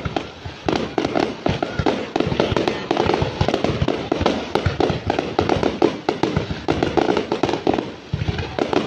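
Aerial fireworks display going off: a rapid, unbroken string of bangs and crackling from bursting shells.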